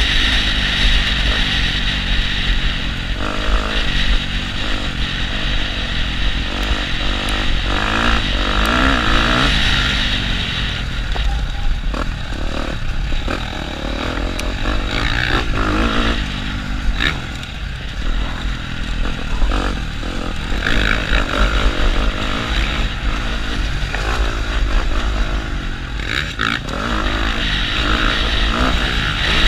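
KTM motocross bike's engine heard from on board, running hard and rising and falling in revs as the rider accelerates, backs off and shifts. Heavy wind noise on the helmet microphone throughout.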